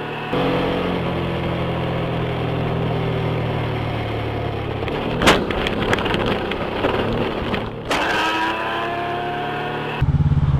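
A vehicle engine running steadily under wind and road noise, with a sudden loud bang about five seconds in followed by a couple of seconds of clattering.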